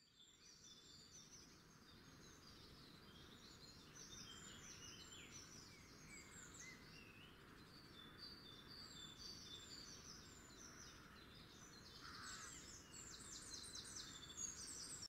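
Faint birds chirping and twittering, many short quick notes, busier near the end, over a low steady background hiss.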